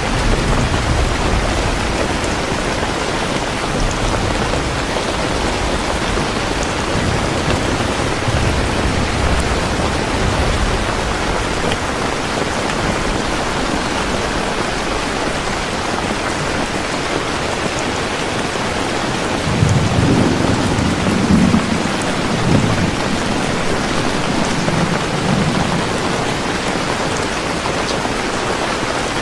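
Heavy rain falling steadily, with low thunder rumbling underneath: softer rolls in the first ten seconds or so, and a louder rumble about two-thirds of the way through.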